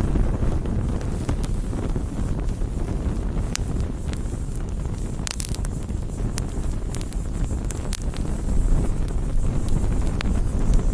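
Campfire of burning wood, crackling and popping in scattered sharp snaps over a steady low rumble, with a few louder pops about halfway through.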